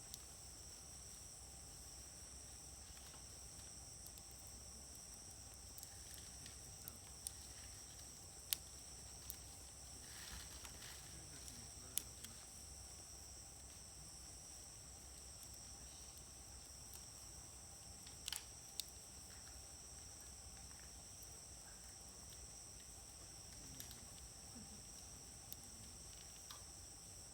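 Quiet wood fire crackling, with a few sharp pops, over a steady high chirring of insects such as crickets.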